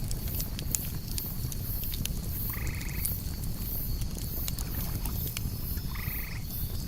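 Campfire burning with scattered crackles and pops over a low rumble, crickets chirping steadily. Twice, about three and a half seconds apart, an animal gives a short trilled call.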